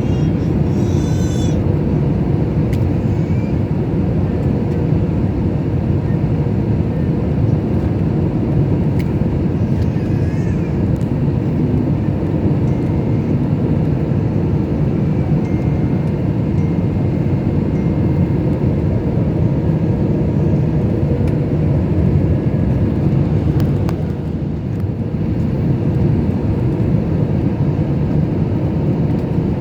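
Steady low rumble of an airliner cabin on the ground after landing, with a brief drop in level about three-quarters of the way through.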